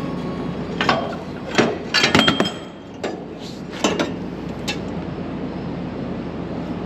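Metal-on-metal clinks and knocks of tools working on baler parts, several sharp strikes in the first few seconds over a steady low background hum.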